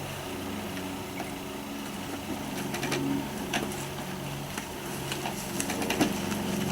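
A steady, slightly wavering low mechanical hum, like a small engine or motor running, with a few faint sharp clicks scattered through it.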